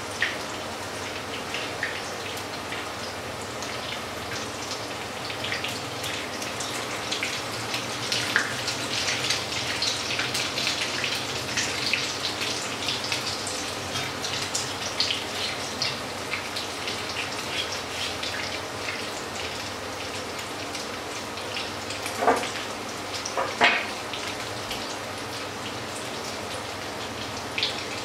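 Fritters sizzling and spitting in hot oil in a frying pan, a dense crackle that is busiest about a third of the way in. A couple of louder knocks come a little before the end.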